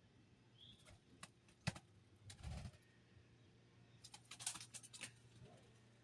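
Faint scattered clicks and taps over near silence: a few single ones early, a soft dull knock, then a quick run of clicks about four seconds in.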